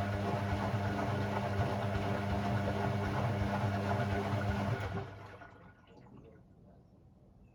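Hoover Sportswear 1300 AI130 washing machine taking in water at the start of its wash: water rushing in over a steady hum, which stops abruptly about five seconds in as the fill shuts off.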